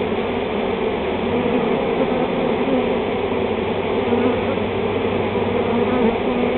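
A honey bee swarm buzzing: the steady, dense hum of many bees in flight.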